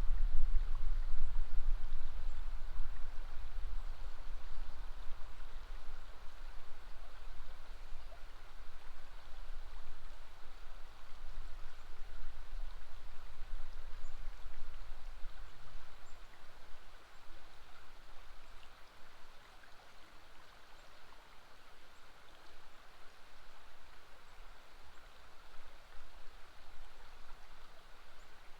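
River water flowing steadily, an even rushing noise. A low rumble underneath is loudest at the start and fades away over the first twenty seconds or so.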